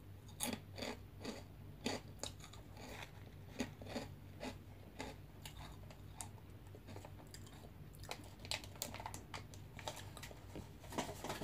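Crunchy veggie straws being bitten and chewed with the mouth close to the microphone: a run of faint, irregular crisp crackles.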